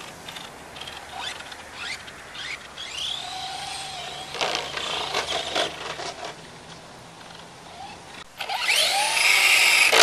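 Electric motor of a radio-controlled monster truck whining as it revs up and down in short bursts, with a longer, louder burst near the end.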